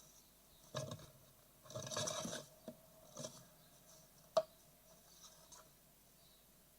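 Great tit nestlings scrabbling and rustling inside a wooden nest box, restless and ready to fledge: a few short bursts of scratching and one sharp knock about four seconds in.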